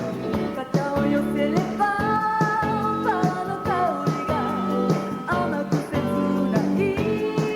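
A woman singing a pop song live with a band: held, gliding vocal notes over electric guitar, bass and drums.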